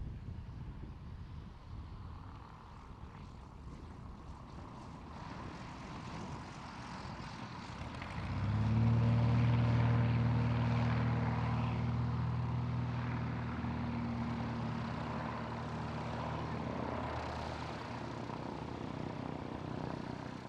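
Light propeller aircraft's engine, building up at first, then loud from about eight seconds in with a steady low engine tone that slowly eases off.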